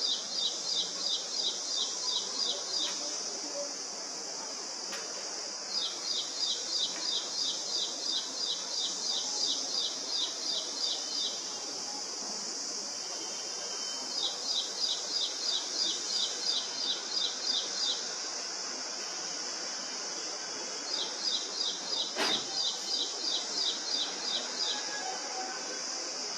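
A small bird singing in four bouts of rapid, evenly repeated high chirps, about four a second, each bout lasting a few seconds, over a steady high-pitched hiss.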